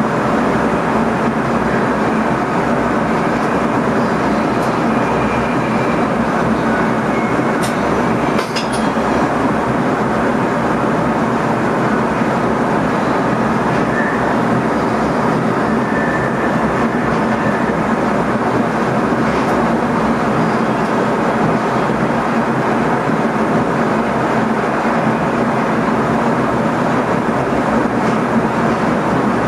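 Steady running noise inside the cab of an NS ICM electric intercity train at speed: wheels on rail and a constant low hum. A few short sharp clicks come about eight seconds in.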